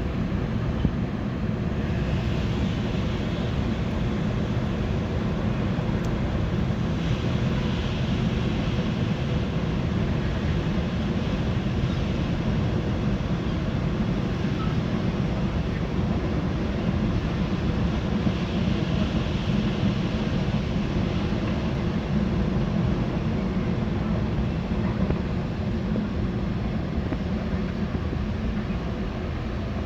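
A train running past with a steady low rumble that holds level throughout, with no horn or other sudden sound.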